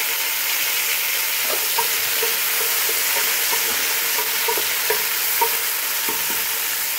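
Chopped tomatoes and fried onions sizzling steadily in hot oil in an aluminium pot, stirred with a wooden spoon that scrapes and taps against the pot.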